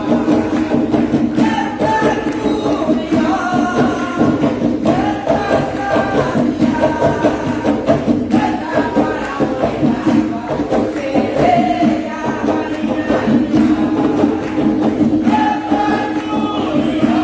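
Group singing of an Umbanda ponto cantado, voices in chorus over steady drumming.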